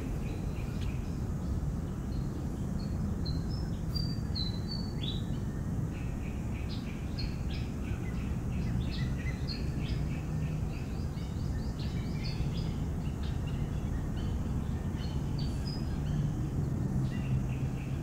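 Birds chirping outdoors in many short, quick high notes that become frequent a few seconds in, over a steady low background rumble.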